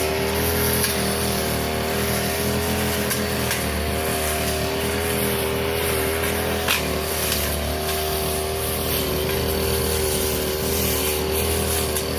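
Petrol brush cutter running steadily at high throttle while cutting grass, its pitch wavering slightly under load. There is a single sharp click about two-thirds of the way through.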